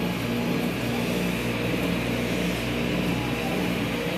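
Automatic tunnel car wash equipment running: a steady wash of water spray and machinery noise as the mitter curtain works over the car.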